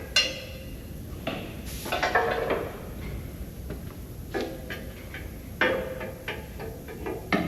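Irregular metallic clanks and knocks from steel tools working on a dozer's track pins, about half a dozen spaced unevenly, the first ringing briefly.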